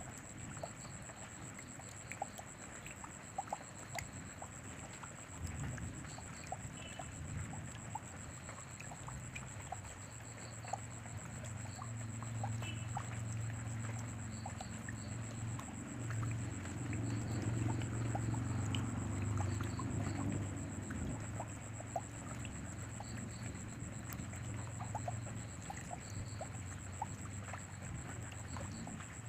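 Steady rain falling, with many separate drops ticking on surfaces. A low rumble builds from about six seconds in and fades out again before the end.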